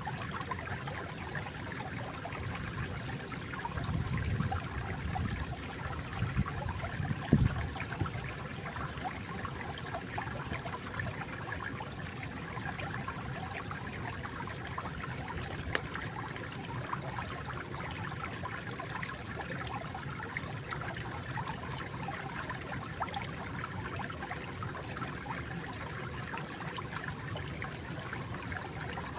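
Flowing water trickling steadily over stones. A few louder, deeper surges come around four to seven seconds in, ending with a brief sharp knock.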